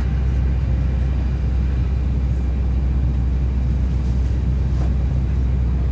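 Steady low rumble inside an Airbus A320 airliner cabin, an even, unchanging drone.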